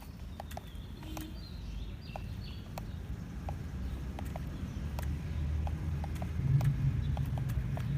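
A low vehicle motor hum that grows steadily louder and strengthens about two-thirds of the way in, with irregular sharp clicks and ticks scattered throughout.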